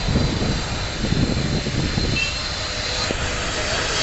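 Steady rushing engine noise from a jet airliner, with an uneven low rumble underneath.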